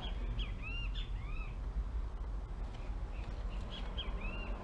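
Birds calling: short chirps that rise and fall in pitch, in two bursts, one at the start and one near the end, over a low steady rumble.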